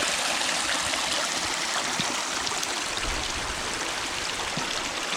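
Running water of a stream: a steady rush, with some low rumble joining about halfway through.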